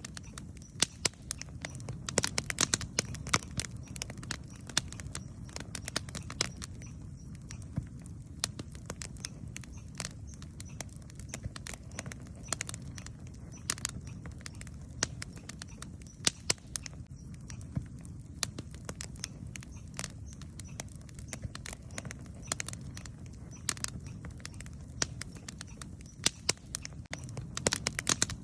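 Wood campfire crackling, with frequent irregular sharp pops over a steady low rumble of the burning fire.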